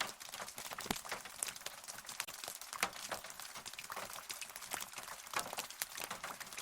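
Rain falling steadily, with many close individual drops tapping irregularly, several a second, over a soft hiss.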